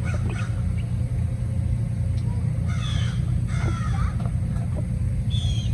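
Waterfowl calling, a few short honking calls about three and four seconds in and again near the end, over a steady low rumble.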